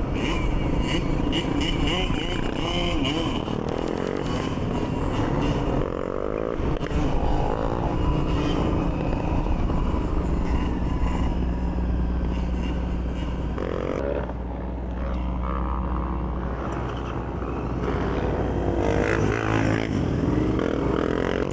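Motorcycle engines running on the move, rising and falling in pitch as they rev up and ease off several times, with a steadier low hum for a few seconds in the middle.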